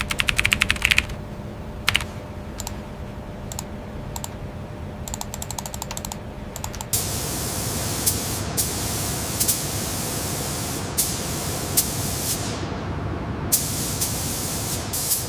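Rapid trains of mechanical clicking over a low steady hum, then a steady loud hiss like a spray starts abruptly about seven seconds in, with a few sharp clicks over it.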